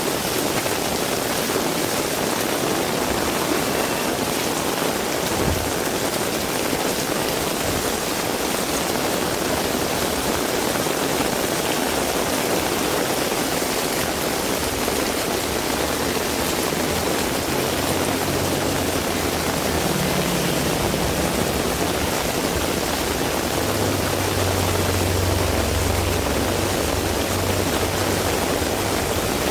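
Heavy rain falling steadily. In the second half a vehicle's engine rumble rises underneath it, loudest a few seconds before the end.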